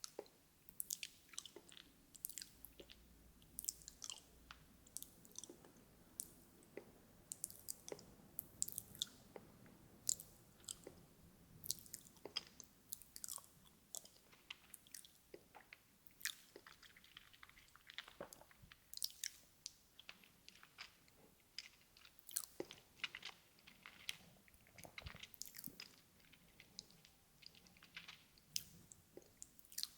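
ASMR mouth sounds: wet clicks and smacks of the lips and tongue close to the microphone, irregular and several a second, like soft chewing.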